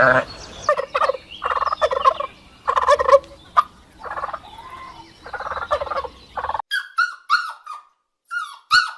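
Bird calls: a run of about eight short, harsh repeated calls, then after a sudden change in background a quick series of short high chirps that fall in pitch.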